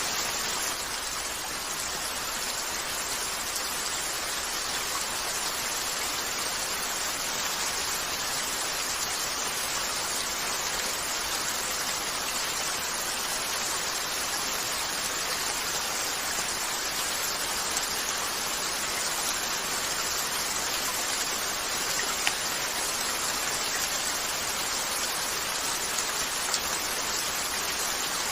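Steady rain falling on a window, an even hiss with a few sharp ticks in the second half.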